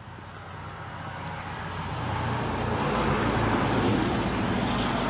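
A road vehicle driving past, its rushing tyre-and-engine noise with a low hum growing louder over the first few seconds and easing off slightly near the end.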